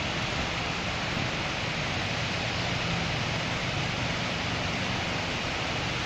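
Steady rain falling in a city, a dense even hiss with a low rumble underneath.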